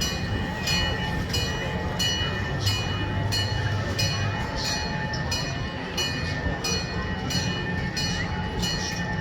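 Gas-powered replica train running along its track, with a steady low rumble, a steady high whine, and regular clicking from the wheels about twice a second.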